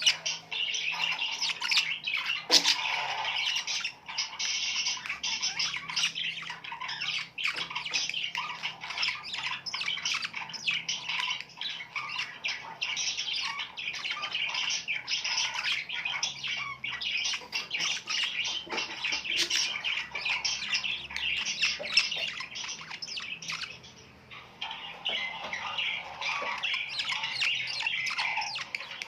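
A flock of birds chirping and squawking in a dense, continuous chatter of overlapping short calls, thinning out briefly about three-quarters of the way through.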